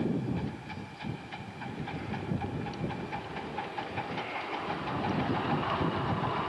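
Live-steam Atlantic-type (4-4-2) miniature steam locomotive pulling away from a start, its exhaust chuffing in a regular beat over a steady steam hiss, growing a little louder.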